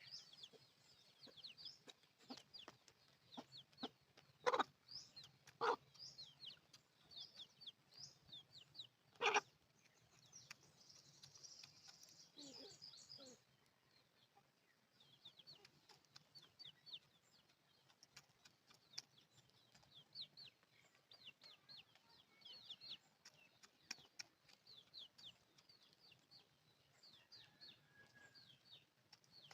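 Chickens chirping and clucking: many short, high, falling chirps throughout, with a lower call near the middle. A few sharp knocks in the first third are the loudest sounds.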